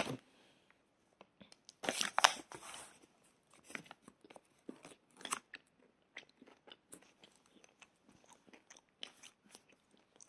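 A person biting into popcorn and chewing it with small crunches. There is a louder burst of crunching about two seconds in, then scattered soft crunches.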